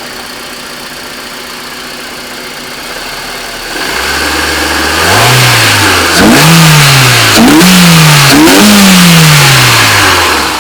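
2002 Honda Civic EX's 1.7-litre four-cylinder engine, breathing through a K&N air filter, idling and then blipped four times in quick succession, each rev rising and falling back, the last held longest before it drops back to idle near the end.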